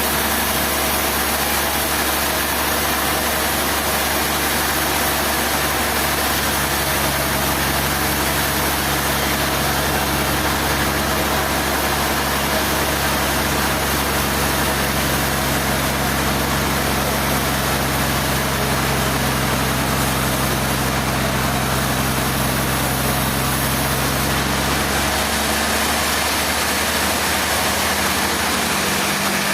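Sawmill machinery running steadily: a low engine or motor hum under a dense, even hiss. The low hum changes pitch about 25 seconds in.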